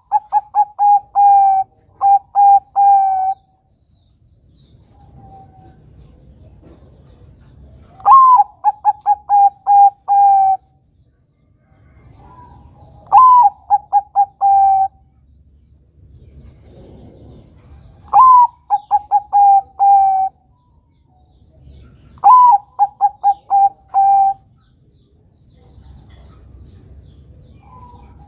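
Zebra dove (Bangkok-type perkutut) cooing its song. Each phrase is a higher opening note followed by a quick run of short, lower coos, repeated about every five seconds, five times in all.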